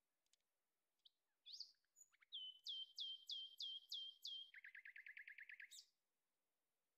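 Faint songbird song: a few scattered chirps, then a run of about seven clear notes, each sweeping down and holding, followed by a faster trill of about a dozen lower notes that stops suddenly near the end.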